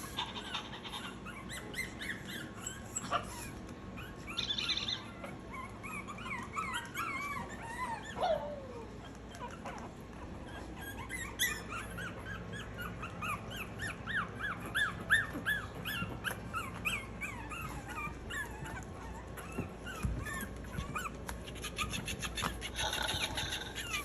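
Maltese puppies whimpering and squeaking: many short, high cries, with one longer cry sliding down in pitch about eight seconds in.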